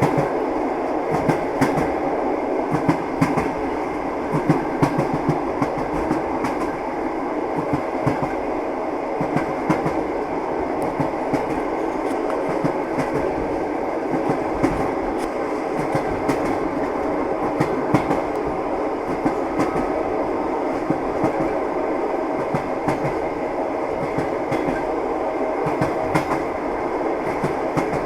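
Train wheels clattering over the rails as the train runs steadily, a continuous rumble with frequent short clicks and knocks throughout.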